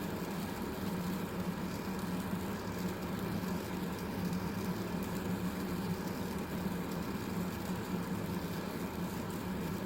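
Vehicle engine running with a steady, unchanging low hum.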